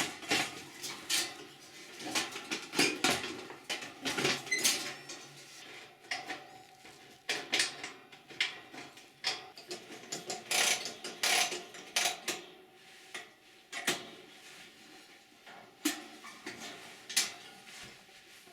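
Metal parts clinking and knocking as they are handled, in irregular clusters of sharp clicks, some with a short ring, and occasional scrapes.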